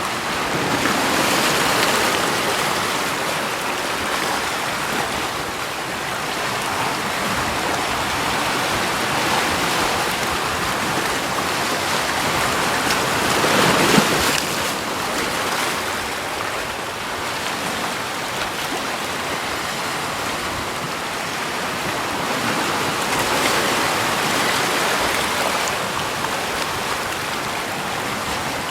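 Steady rushing water, swelling and easing a few times, loudest about fourteen seconds in.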